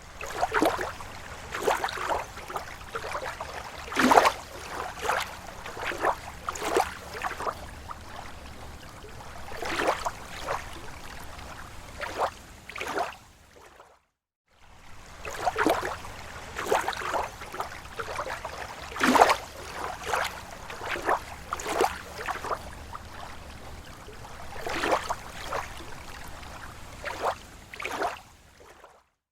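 Small waves lapping and splashing irregularly against a lake shore, one slap every second or so over a steady wash of water. The sound cuts out completely for about half a second about halfway through, then resumes.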